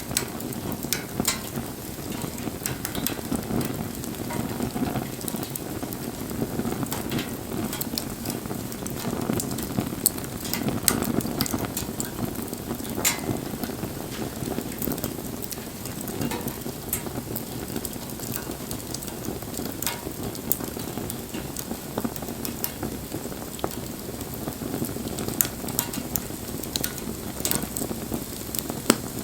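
Wood fire burning: a steady low rumble of flame with frequent sharp crackles and pops scattered throughout.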